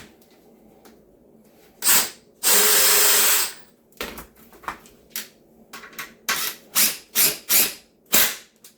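Power drill running steadily for about a second while driving a screw into a wooden cabinet frame, followed by a string of short sharp bursts over the next four seconds.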